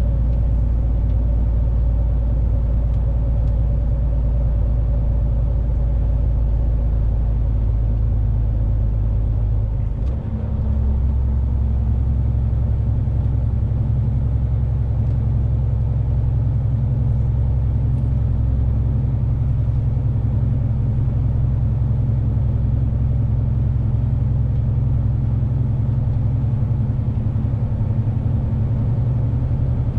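Lorry engine and road noise drone steadily inside the cab. About ten seconds in there is a brief dip, after which the engine's low note changes.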